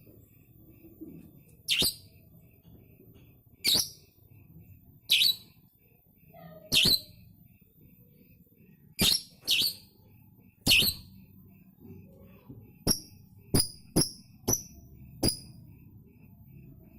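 Lovebird giving loud, shrill single calls, about seven of them spaced a second or two apart, then a quicker run of five shorter calls near the end.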